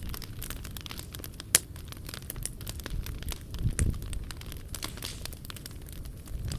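Wood fire crackling with many small snaps and pops over a low rumble of burning, and one sharp, loud pop about a second and a half in.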